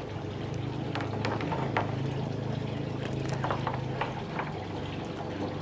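Kitchen cooking sounds: liquid bubbling with scattered clicks and knocks of utensils over a steady low hum.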